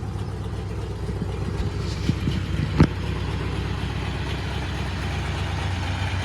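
A 1971 Oldsmobile Cutlass engine idles steadily just after a cold start, still warming up. A single sharp knock sounds a little under three seconds in.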